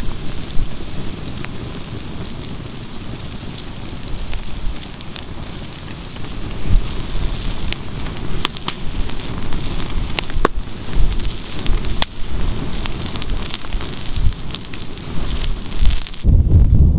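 Wood campfire crackling, with scattered sharp pops from the burning wood. Near the end a low rumble grows louder as the crackle fades.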